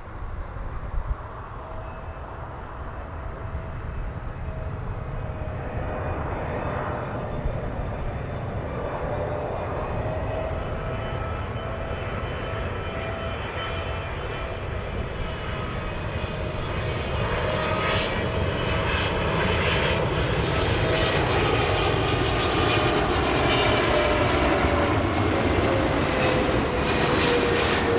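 Boeing 777 jet engines on landing approach, a rumble with a whining tone growing steadily louder as the airliner comes overhead; near the end the whine falls in pitch as it passes.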